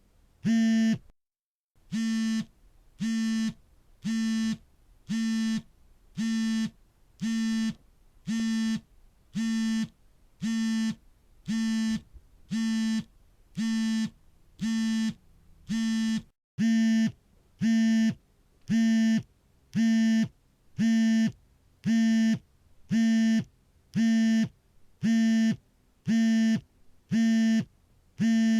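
Smartphone vibrating for an incoming call, buzzing in regular half-second pulses about once a second. There is a brief silent break about a second in, and the buzzing is louder in the second half.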